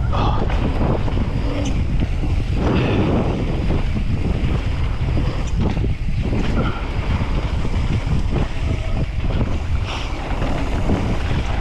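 Wind buffeting a rider-mounted camera microphone on a mountain bike at speed downhill, with the bike rattling and clattering over rough trail.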